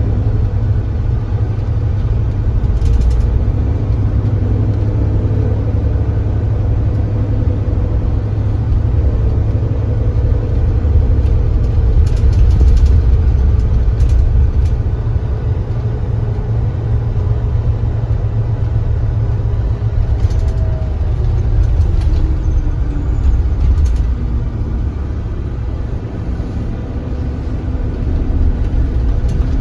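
Kia Granbird Sunshine coach's engine running under way, a deep steady rumble with its engine note shifting in pitch and falling a little past the twenty-second mark. A few short clicks and rattles come through now and then.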